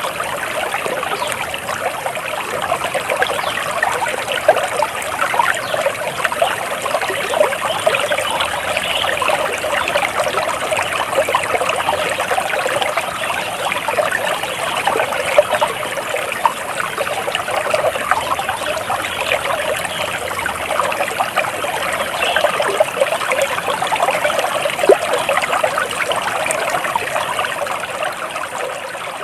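Flowing water of a small stream, trickling and splashing steadily.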